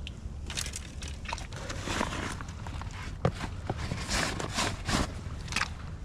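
Footsteps with clothing and gear rustling: irregular crunches and scuffs at an uneven pace.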